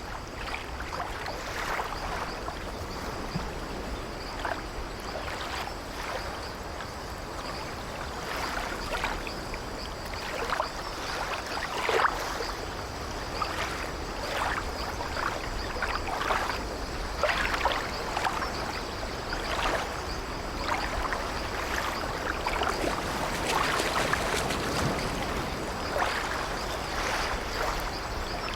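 Sea waves washing and lapping in a continuous wash, broken by many short, irregular splashes.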